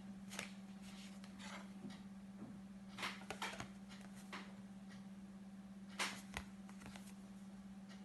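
Faint taps and rustles from a paper flashcard being handled and flipped, in small clusters about a second apart, over a steady low electrical hum.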